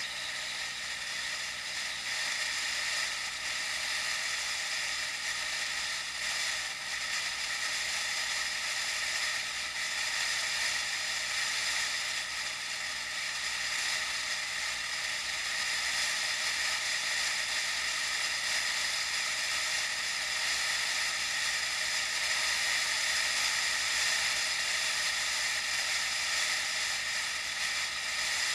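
Steady hissing noise of a bicycle ride, wind and tyre noise on the road, as picked up by an action camera.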